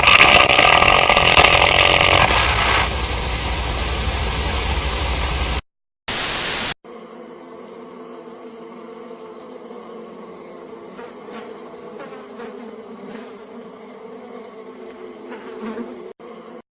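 Flies buzzing, a steady drone of several held pitches with a few faint clicks. Before it comes loud hiss-like noise that stops abruptly about five and a half seconds in, followed by a short burst of noise.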